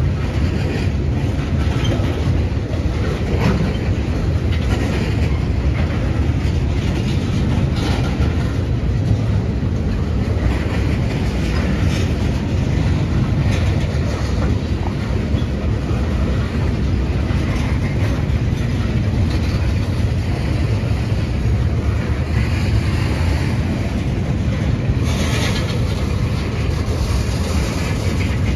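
Railroad tank cars of a freight train rolling steadily past at close range: a continuous low rumble of steel wheels on rail, with clicks and clacks at irregular intervals.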